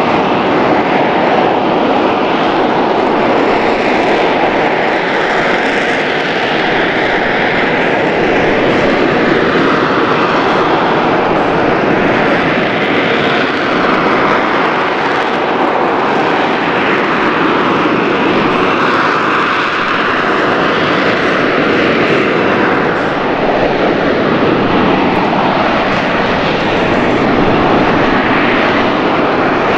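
AV-8B Harrier II jet running loud and steady through its Pegasus turbofan, with a dense roar whose tone slowly drifts up and down.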